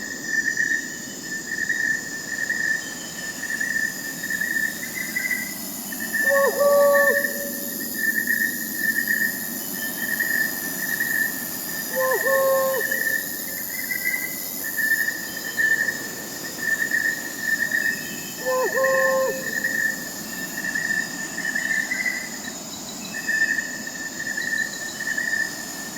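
Night forest ambience: crickets chirping steadily in a pulsing high trill, with an owl giving a short hoot about every six seconds.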